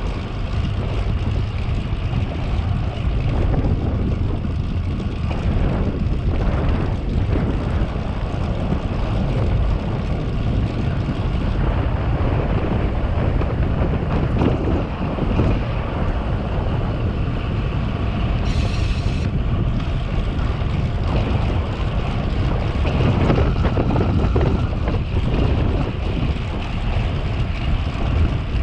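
Steady wind rush buffeting a camera microphone on a moving bicycle, heaviest in the low rumble. There is a brief higher hiss about two-thirds of the way through.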